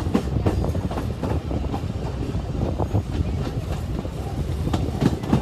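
Passenger train running between stations: a steady rumble with irregular clicks and knocks of the wheels passing over rail joints.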